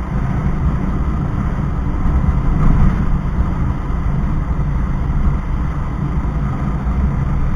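A motorbike riding along: a steady low engine and road rumble, mixed with wind on the microphone.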